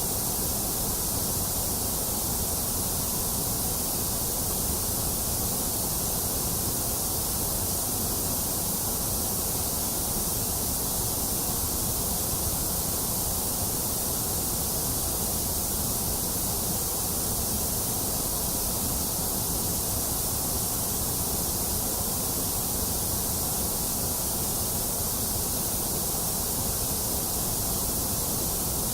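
Steady electronic white noise: a constant, unchanging hiss, strongest in the high hiss and the low rumble and thinner in between.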